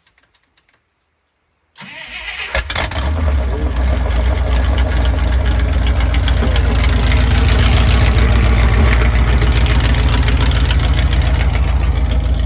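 A 1968 Dodge D200 pickup's engine cold-starting after sitting unused for a long time: about two seconds in it cranks briefly, catches with a sharp crack, and runs with a steady pulse, growing louder for several seconds before settling.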